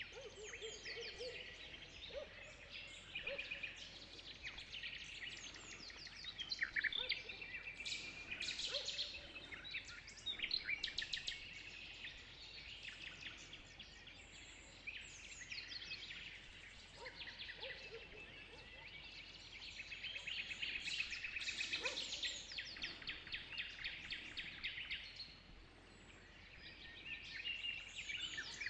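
Dawn chorus of several songbirds chirping and trilling at once, rapid high notes overlapping, with a few lower calls mixed in. It eases off for a moment past the middle and builds again near the end.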